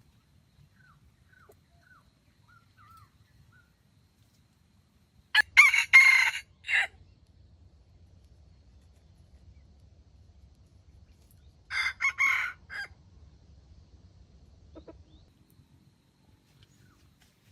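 A rooster crowing twice: a loud crow about five seconds in and a quieter one about twelve seconds in. Faint short chirps in the first few seconds.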